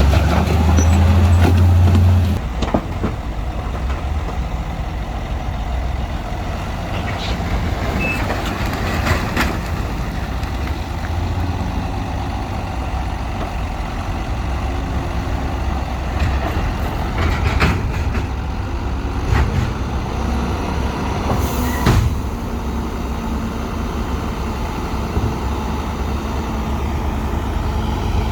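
Heavy diesel earthmoving machinery running steadily, with a louder low engine note for the first two seconds and scattered sharp clanks and knocks.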